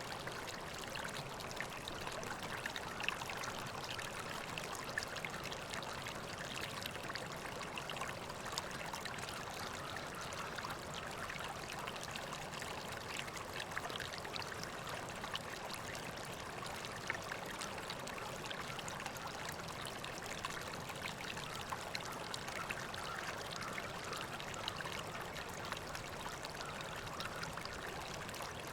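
River water flowing steadily, an even rush full of tiny splashes and trickles.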